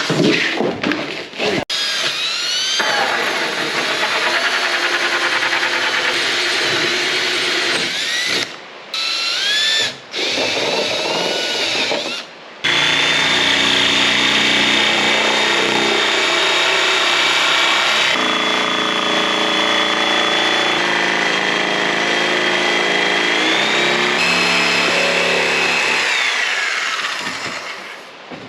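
Electric drill running while drilling holes in metal trim for rivets. The motor whine speeds up and slows down with short stops during the first twelve seconds, then runs steadily for about fifteen seconds, stepping in pitch a few times before winding down near the end.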